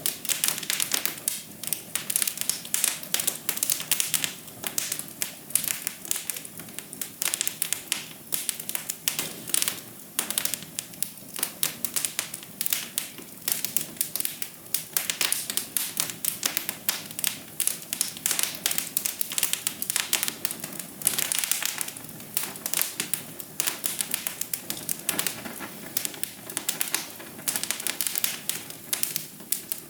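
Wood fire crackling in a fireplace: a dense, irregular run of sharp pops and snaps over a steady low hiss.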